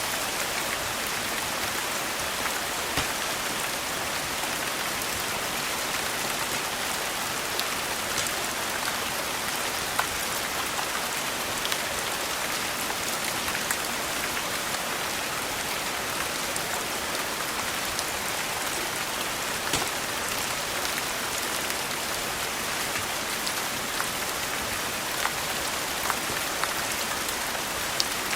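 Steady rain falling as an even hiss, with scattered sharp clicks every second or two.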